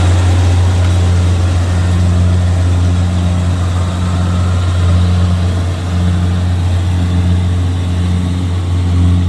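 Kubota DC-70G Plus combine harvester running steadily, its diesel engine giving a loud, even low hum.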